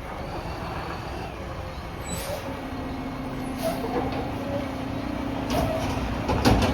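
Mack MRU McNeilus front-loader garbage truck running, its diesel rumbling steadily. A steady whine joins about two and a half seconds in, and short hisses come at intervals, growing louder near the end.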